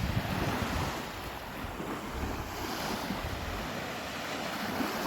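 Sea waves washing, with wind buffeting the microphone in an irregular low rumble.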